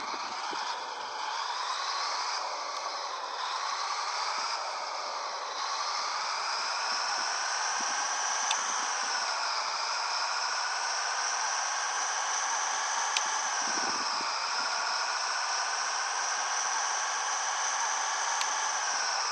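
Scania 113H 360 truck running under way, a high whine that climbs slowly and drops back several times, over a steady hiss.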